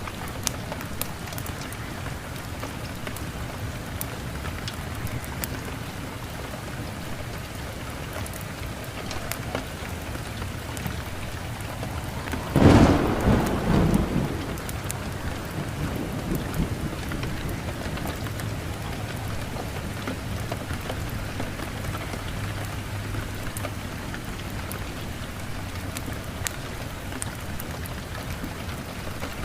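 Steady rain falling, with a thunderclap about halfway through: a sharp crack followed by a rumble that dies away over about two seconds.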